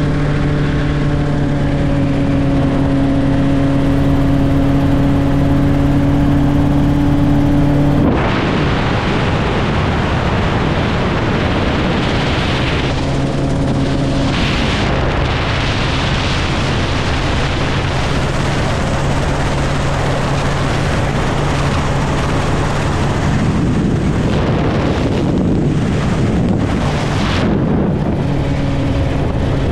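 Helicopter in flight: a steady engine and rotor hum under a heavy rush of wind. About eight seconds in, the wind noise jumps up and buries the hum, which comes back faintly now and then.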